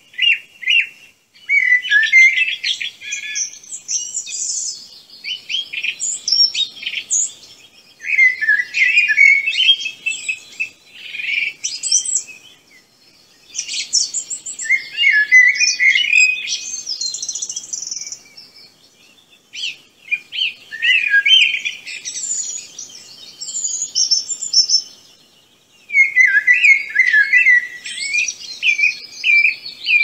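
A songbird singing in fast warbled phrases of chirps and trills, each a few seconds long with short pauses between.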